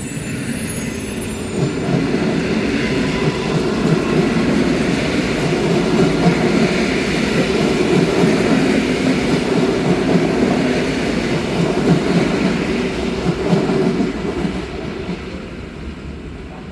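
An EN57AKM electric multiple unit running through the station: the rumble of its wheels on the track swells about two seconds in, holds, then fades away near the end.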